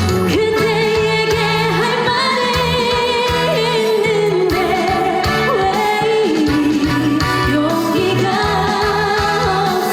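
Korean trot song: a female singer's voice with vibrato, sliding between notes over a backing track with bass and guitar.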